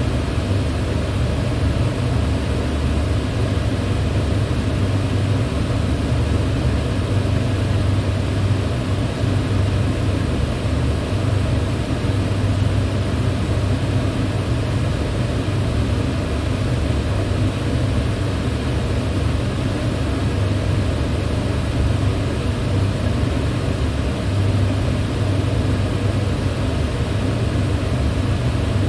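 Electric fan running steadily at constant speed, a continuous airy rush with a low hum.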